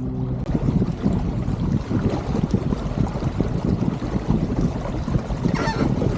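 Water rushing and sloshing along the hull of an Elliott 7.4 sailing keelboat under way, with wind buffeting the microphone in uneven gusts. A brief higher-pitched wavering squeal near the end.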